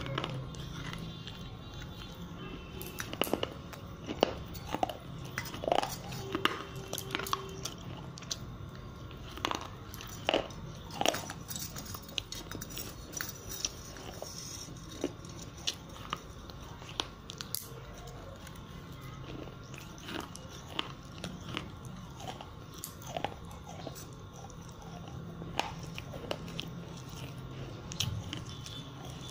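A person chewing and biting something hard and brittle, with irregular sharp crunches. The crunches come thickly in the first part and more sparsely later.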